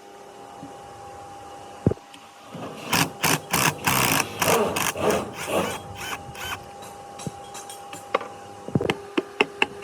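A small motor running with a steady hum, with a cluster of clicks and rattles in the middle and quick, regular ticks, about three or four a second, near the end.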